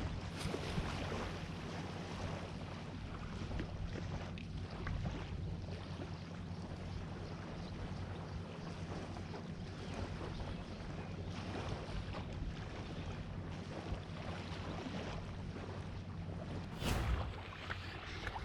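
Wind buffeting the microphone over a steady wash of sea waves, with a louder thump near the end.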